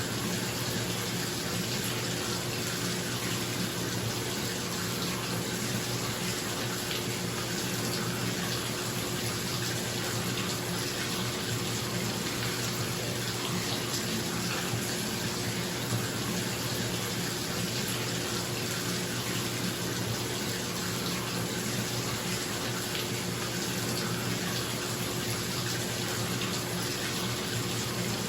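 Bathtub filling from a running tap, a steady rush of water, with a bathroom exhaust fan humming steadily underneath.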